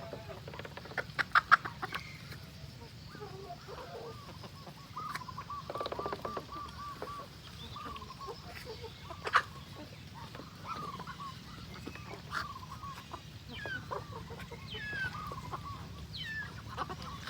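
Chickens clucking: many short calls, with a quick run of repeated clucks about six seconds in. A handful of sharp taps sound near the start and one more partway through.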